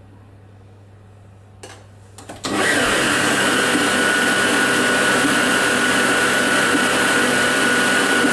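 Electric blender switched on with a couple of clicks about two seconds in, then running steadily with a high whine as it blends strawberries and icing sugar to a purée. At the very end it is switched off and the whine starts to fall as the motor spins down.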